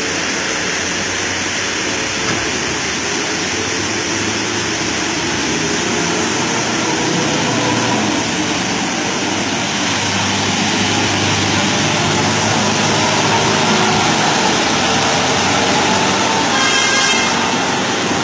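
Motor vehicle running on a road: a steady, loud mix of engine and road noise, with a brief high tone about 17 seconds in.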